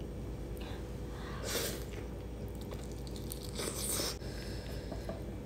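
Close-up mouth sounds of someone chewing a mouthful of food eaten by hand, with two brief, louder smacks, about a second and a half in and about four seconds in.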